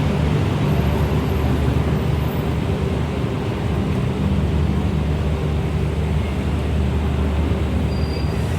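Steady low rumble and hum of a passenger train, even and unchanging.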